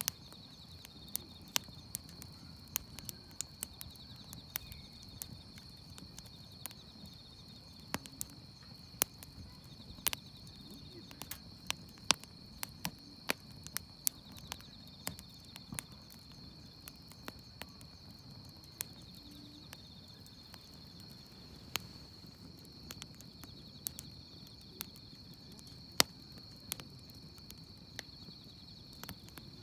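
Wood campfire crackling, with many irregular sharp pops over a low rumble, against the steady high chirring of crickets.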